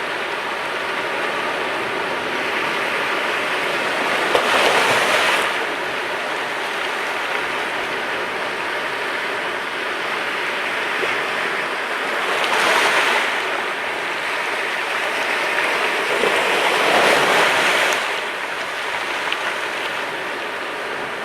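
Sea waves breaking and washing on the shore, a steady surf hiss with three louder breakers: one about four seconds in, one a little past the middle and a longer one near the end.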